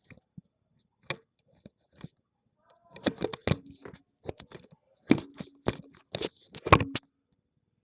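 Toy packaging being handled and torn: scattered clicks at first, then a dense run of sharp crackles and rustles in the second half that stops abruptly about a second before the end.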